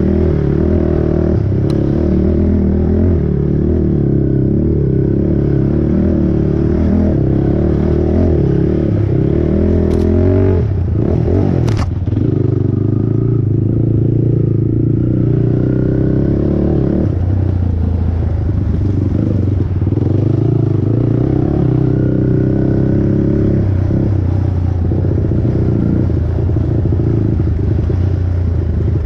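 Honda TRX450R single-cylinder four-stroke ATV engine running hard under racing throttle, its pitch rising and falling as the rider works the throttle. Two sharp knocks about ten and twelve seconds in.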